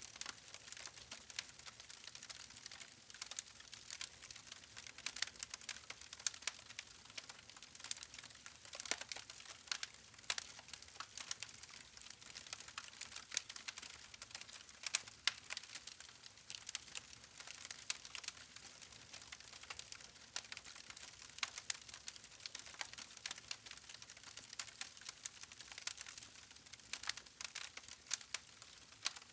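Wood fire burning with dense, irregular crackling and popping of the logs over a faint steady hiss.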